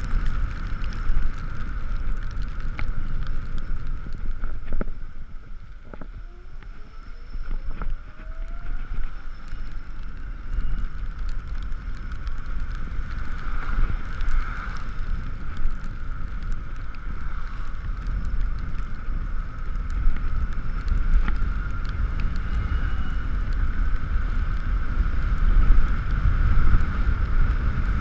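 Wind buffeting the microphone and road rumble from a riding Ekoway ML5000 electric scooter, with a steady high whine from its drive. The noise eases for a few seconds about five seconds in, then a faint rising whine comes in as it picks up speed again.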